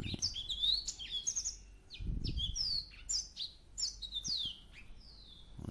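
Small birds chirping, a quick, busy series of short sweeping chirps, with a brief low sound about two seconds in.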